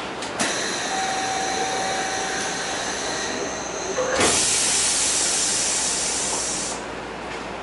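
Kyoto Municipal Subway 20-series train running, heard from inside the car: a rushing hiss with faint steady tones sets in about half a second in, and a louder hiss comes in about four seconds in for about two and a half seconds before dropping back to the steady run.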